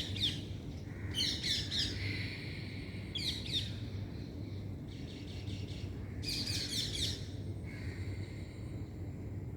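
Birds chirping: several separate bursts of quick, high chirps, each lasting about a second, over a steady low hum.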